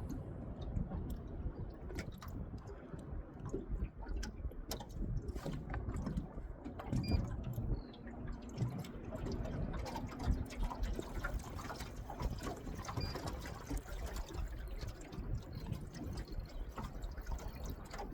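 Water lapping and dripping close by, with small irregular splashes and ticks over a low wash.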